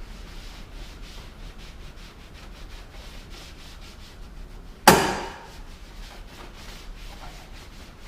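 A towel wiping and rubbing over engine-bay plastics in a run of short strokes. About five seconds in comes one sharp, loud knock that rings briefly.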